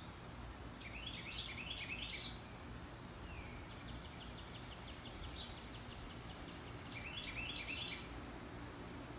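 Birds calling over and over: a phrase of quick stepped chirps about a second in and again about seven seconds in, with a fast run of ticking notes between, over a steady low background rumble.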